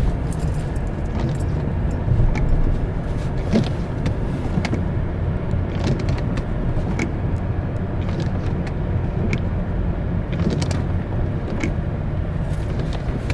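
Car interior road noise while driving: a steady low rumble of engine and tyres, with scattered light ticks.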